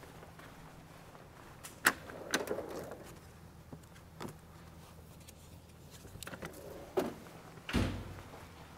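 Scattered knocks and clicks of a loose part being handled and pulled off in a car's engine bay, with a louder, deeper thump near the end. A faint steady hum runs underneath.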